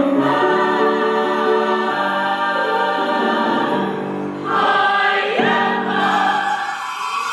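Choir singing a Christmas carol in sustained chords, the last phrase dying away near the end.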